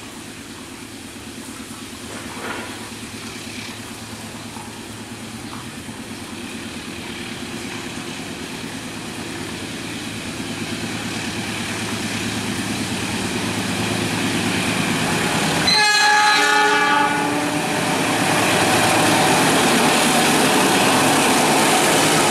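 Diesel-electric locomotive hauling a coal train as it approaches, its engine drone and wheel noise growing steadily louder. About two-thirds of the way through it sounds one horn blast of about a second and a half, and the rumble of wheels on rails then swells as it draws near.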